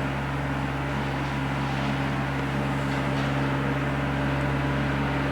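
Engine running steadily at constant speed: a low, even hum with no change in pitch.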